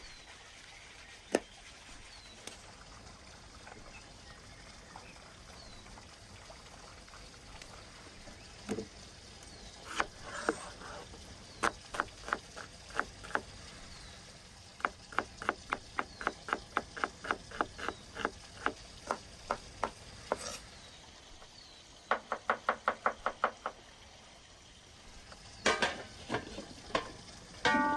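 Knife chopping on a cutting board in runs of quick, even strokes, about four a second, with a faster burst of strokes near the end and a few single knocks between. Faint high chirps repeat every couple of seconds in the background.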